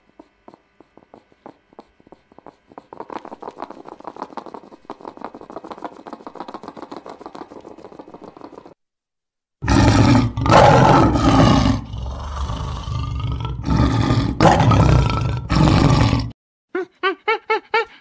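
A lion roaring in a few long, deep, loud roars, the loudest sound here. Before it, faint rapid ticking from a hedgehog snuffling and chewing in grass. Near the end, a young monkey gives a quick even run of short, high calls.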